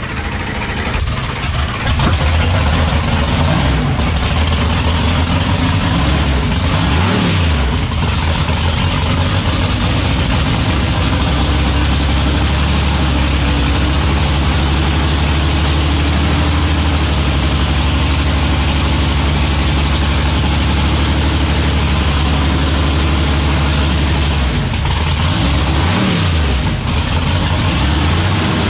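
Loud drag racing car engines idling steadily, briefly revved twice, about seven seconds in and again near the end.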